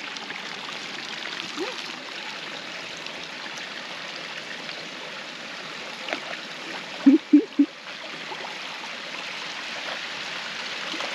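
Steady rush of a small waterfall trickling into a rock pool. About seven seconds in, three short pitched sounds come in quick succession, louder than the water.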